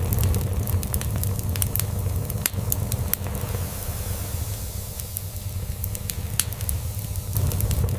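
Wood fire crackling, with frequent sharp pops and snaps, over a cat's low purring rumble. The purr eases off for a few seconds in the middle and then comes back.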